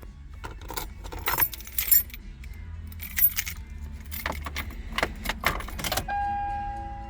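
A bunch of keys jangling and rattling in irregular clinks. About six seconds in, a steady electronic tone begins.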